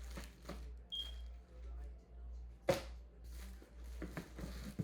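Pressure-washer parts and packaging being handled: light rustling and small clicks, with one sharp knock a little under three seconds in, over a steady low hum.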